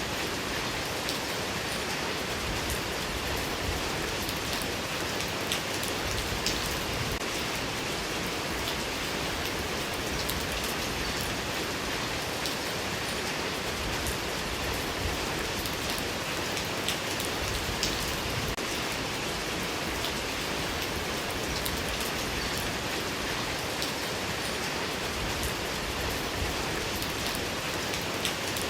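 Steady rain, a dense even hiss with scattered individual drops ticking on a surface.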